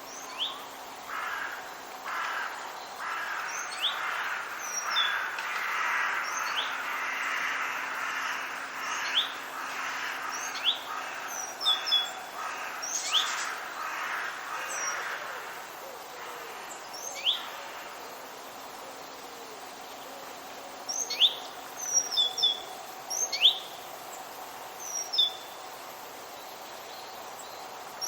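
Wild birds calling: scattered short, sharp chirps throughout, with a denser run of harsher calls in the first half, over a faint steady hiss.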